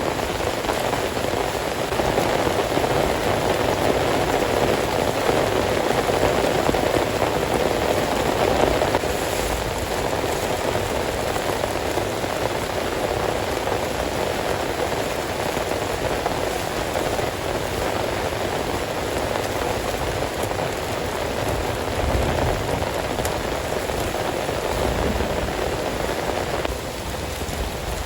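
Heavy rain falling steadily, a dense even hiss of drops that eases slightly near the end.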